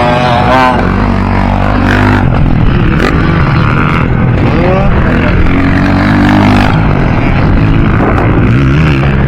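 Motocross dirt bike engines revving, several at once, their pitch rising and falling as they rev up and back off.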